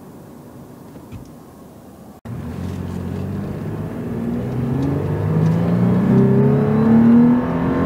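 Toyota 4Runner's 4.0-litre V6 accelerating hard from a standstill: after about two seconds of low cabin hum, the engine note climbs steadily in pitch and loudness for several seconds, revving almost to redline on a light touch of the pedal, with the Throttle Grenade throttle controller set to its most aggressive mode.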